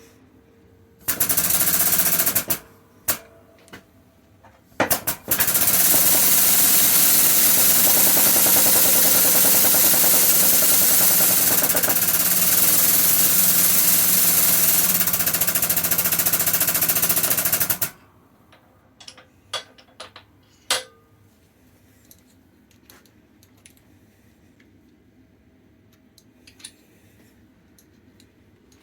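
Air-powered shop press pump rattling rapidly as it builds pressure to drive a bush out: a short run of about a second and a half, then a long steady run of about thirteen seconds that stops abruptly. Light metallic clinks of parts being handled follow.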